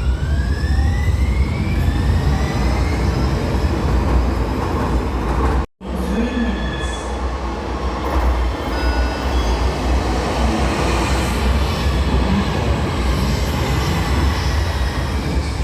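One-car Muni Metro Siemens light-rail train in an underground station: a heavy low rumble with a rising motor whine in the first two seconds as it gathers speed. The sound cuts out briefly a little over five seconds in, then the rumble goes on with scattered faint squeals.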